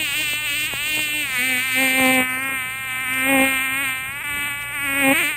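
Mosquito buzzing in flight: a continuous whining drone of wingbeats, its pitch wavering slightly up and down.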